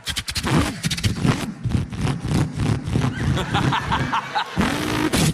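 A man vocally imitating a car engine: a fast, pulsing burble with the revs rising and falling, ending in a revving sweep up and back down.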